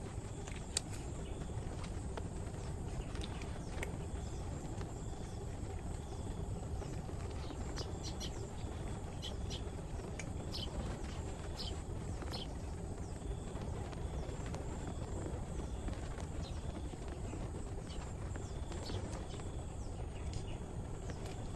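Outdoor background noise: a steady low rumble with faint, short chirps scattered through it.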